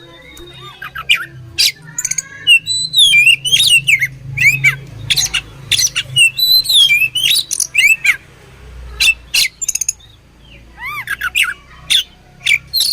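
Oriental magpie-robin singing a fast, varied song of sharp chirps and whistled notes that swoop up and down, with a brief lull about two-thirds of the way through and arched whistles near the end.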